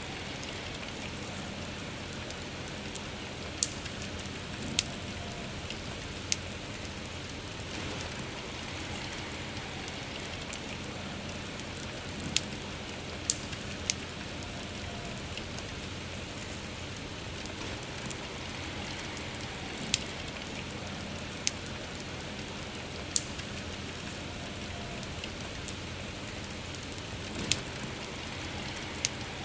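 Steady soft rain with a campfire's wood crackling: about a dozen sharp, scattered pops at irregular intervals over the rain's even hiss.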